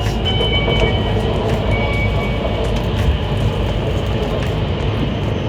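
Joetsu Shinkansen bullet train running, a steady rumble and rushing noise of the train in motion.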